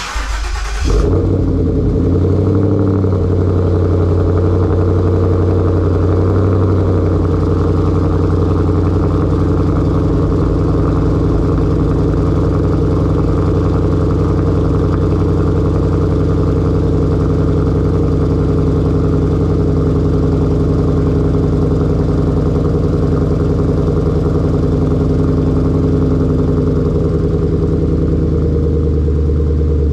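A 2014 Ford Mustang GT's 5.0 Coyote V8 cranks and catches straight away on a cold start, on freshly changed spark plugs, then runs at a steady fast cold idle through its Roush axle-back exhaust. The idle steps down a little a few times as it settles, once near the end.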